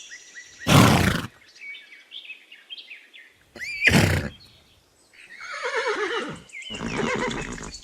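Horse whinnying: a long neigh with a falling, wavering pitch from about five seconds in, after two short loud bursts about one and four seconds in.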